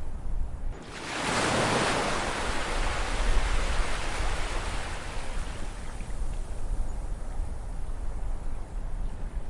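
Ocean surf: a wave breaks about a second in, and its wash slowly dies away over a steady low rumble of the sea.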